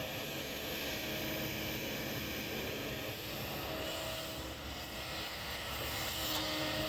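Kobelco excavator's diesel engine running steadily, a continuous even drone.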